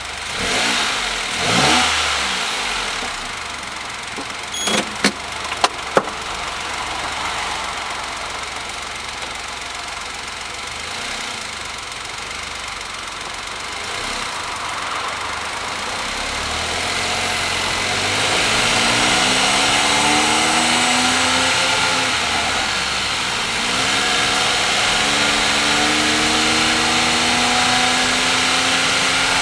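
Honda S660's 660 cc turbocharged three-cylinder engine through an HKS aftermarket exhaust, running at low revs with a brief rev about a second in. In the second half it pulls up through the gears at part throttle, its note rising several times. Tyre hiss from the wet road grows as the car gathers speed, and a few sharp clicks come about five seconds in.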